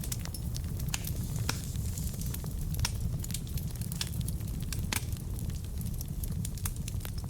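Wood fire burning in a fireplace: a steady low rumble of the flames with irregular sharp crackles and pops from the burning logs, a few louder pops among them.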